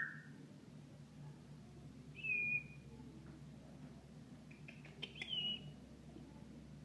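Senegal parrot giving two short whistled calls about three seconds apart, each about half a second long.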